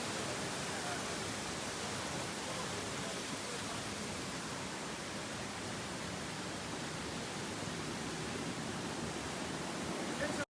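Waterfall: a steady rush of falling water that cuts off suddenly at the very end.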